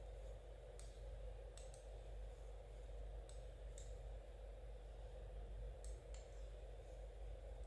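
Knitting needles clicking faintly, several light ticks at irregular intervals, over a steady low room hum.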